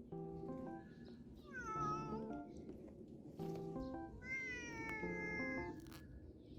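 A cat meowing twice, a short falling call and then a longer drawn-out one, over light background music.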